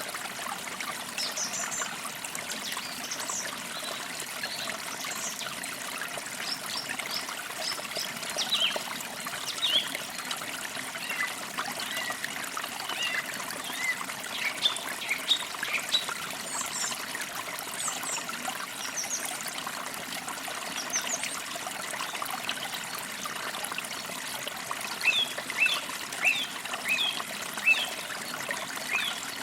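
A forest creek trickling and splashing steadily over stones, with small songbirds chirping in short, quick notes throughout, busiest near the end.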